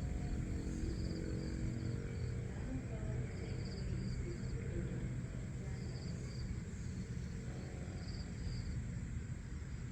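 Outdoor ambience: cricket-like insect chirps, short pulsed trills coming every two seconds or so, over a steady low rumble.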